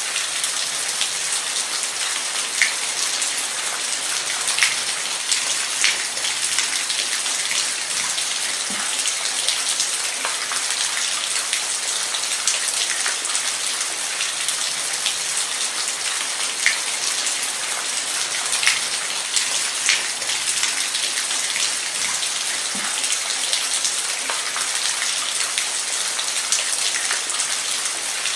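Steady rain falling, with scattered louder drops tapping on a surface.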